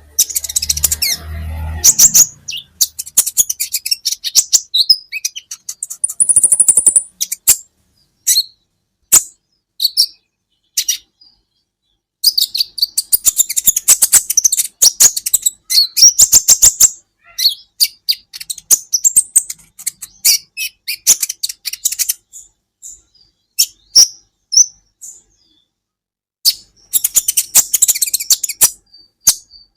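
Sunbird (kolibri ninja) song: rapid, high-pitched chirps and twittering trills in bursts, with short pauses between phrases. A brief low rumble lies under the first couple of seconds.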